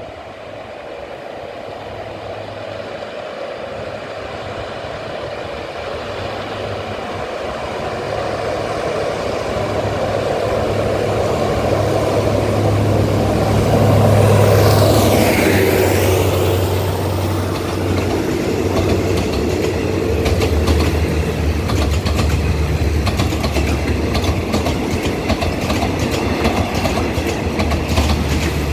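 An SRT diesel locomotive hauling an express passenger train approaches and passes at speed. The diesel engine grows steadily louder to a peak about halfway through, with a falling whine as the locomotive goes by. The coaches then roll past with rapid clicking of wheels over the rail joints.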